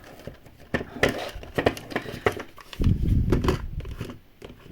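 Small plastic miniature toy pieces and sticker sheets being handled on a tabletop: a run of light clicks, taps and rustles, with a heavier bump and handling noise about three seconds in.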